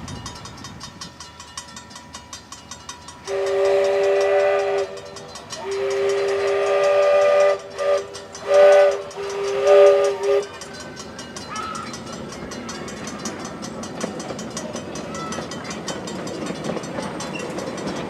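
Grand scale steam locomotive's chime whistle sounding a chord of two main notes in a series of blasts: two long blasts, then several shorter toots, ending about ten seconds in. The train is running steadily underneath.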